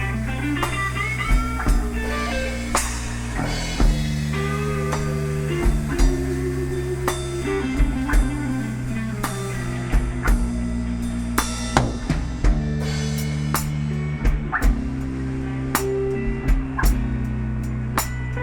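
Live blues band playing an instrumental passage: guitar lines with bent notes over steady bass and a drum kit.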